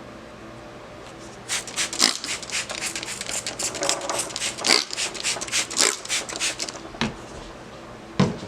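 Trigger spray bottle of water squirting in quick repeated sprays, several a second for about five seconds, wetting a crocheted piece. A couple of soft knocks from handling near the end.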